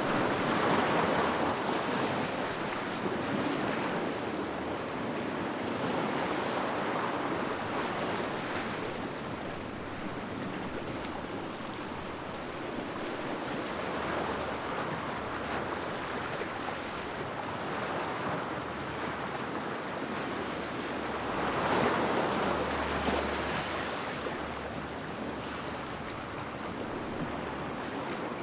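Sea waves breaking and washing on the shore: a continuous surf wash that swells and eases every few seconds, with its biggest surge about twenty-two seconds in.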